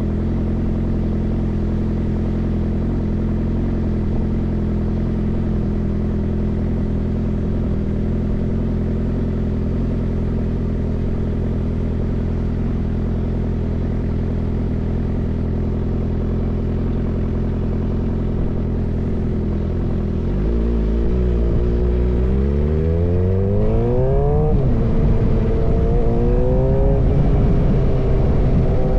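Suzuki GSX-R motorcycle with an M4 full-system exhaust idling steadily, then pulling away about twenty seconds in: the exhaust note climbs, drops at a gear change and climbs again.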